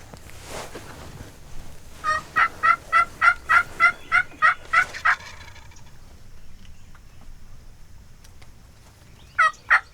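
Osceola wild turkey gobblers gobbling loudly: one long rattling gobble about two seconds in, and another starting near the end.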